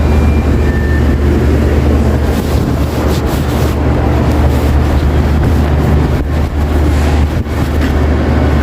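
Supermarket ambience in the butcher and deli area: a steady low hum under a busy, dense background din. Two short electronic beeps sound near the start, one just after the other and slightly lower in pitch.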